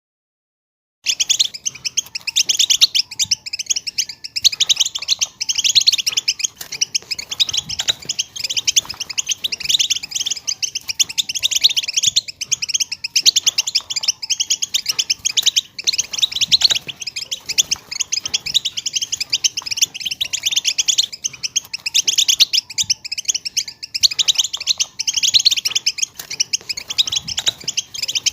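A flock of European goldfinches twittering and singing together in a dense, unbroken chorus of fast, high chirps, starting about a second in.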